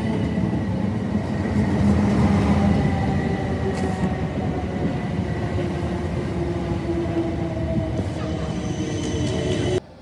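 Electric multiple-unit passenger train moving alongside a platform: a steady rumble of wheels on rail with the whine of its traction motors. The sound cuts off suddenly near the end.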